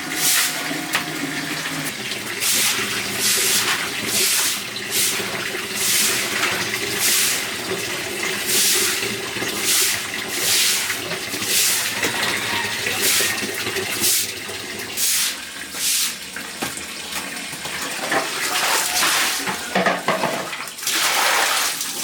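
Water splashing in short repeated strokes, about one a second.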